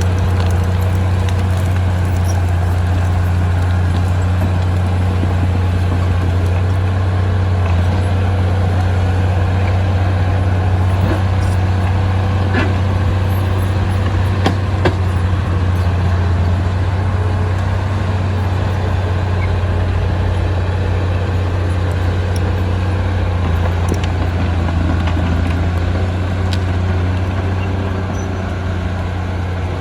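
Diesel engine of heavy construction machinery running with a steady low drone, with a few short sharp clanks.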